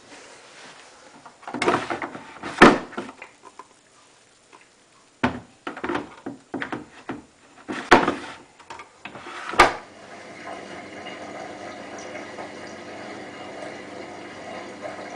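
Washing machine: a run of irregular knocks and thumps, three of them sharp and loud, then from about ten seconds in a steady sound of water being filled into or pumped through the machine.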